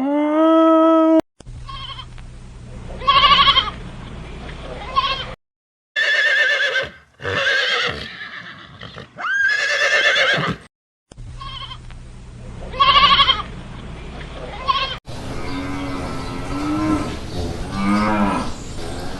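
Cattle mooing in a string of short spliced clips. Some calls are deep and some are high-pitched, and one rises sharply about halfway through.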